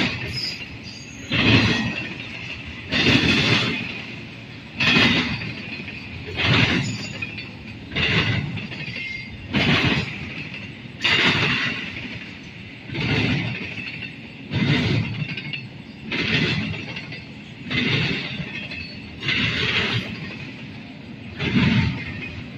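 Freight cars of a passing train rolling through an interlocking, the wheels banging over the track joints in a steady rhythm of about one loud clack every second and a half, with rolling rumble between.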